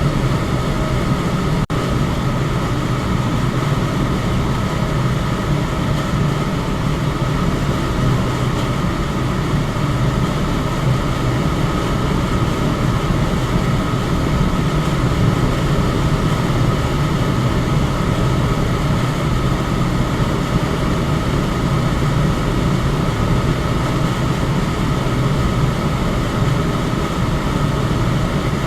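Electric fan running steadily: an even rush of air over a low hum, with a faint steady whine above it. A momentary dropout in the sound about two seconds in.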